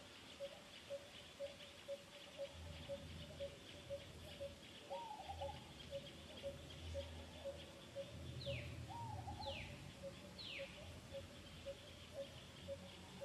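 Birds calling: a steady run of short low pips, about two and a half a second, with an occasional short arching call and, near the middle, three quick downward whistles a second apart. A faint high hiss and a low rumble that comes and goes lie underneath.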